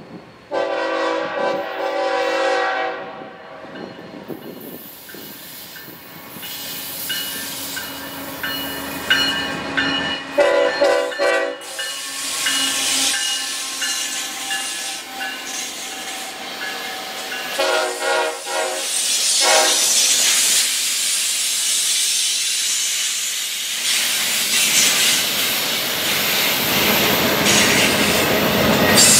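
Train horn sounding several blasts: a long one at the start, another about ten seconds in, and a short pair around eighteen seconds. Between them come thin high wheel squeals, and the rushing wheel-and-rail noise of a passing train grows louder over the last several seconds.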